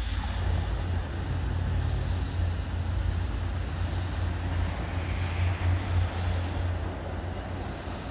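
MBTA commuter train's diesel locomotive and cars pulling away from the station, a steady low rumble.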